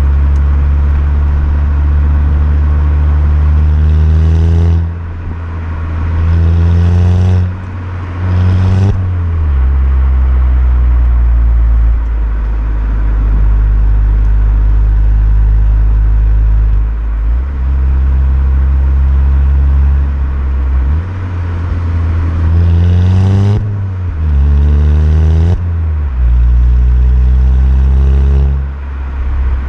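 Volkswagen Golf Mk6 GTI's 2.0 TSI four-cylinder engine and exhaust while driving: a steady low drone at cruise, broken twice by a run of three quick rising revs, each cut off sharply by a gear change.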